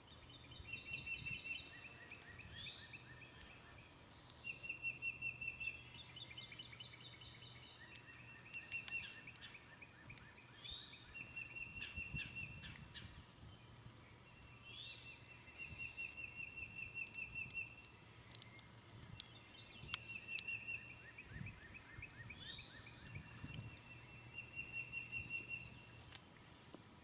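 Several birds singing in overlapping trills, each a rapid run of notes lasting about a second, mixed with short rising chirps. Faint scattered crackles from a smoldering campfire sound underneath.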